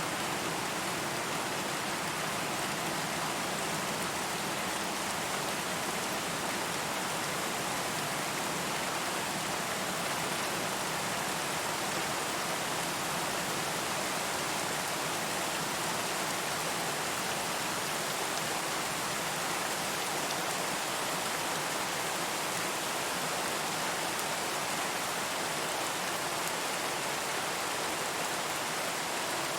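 Steady rain falling, an even hiss of drops with no distinct individual splashes and no thunder.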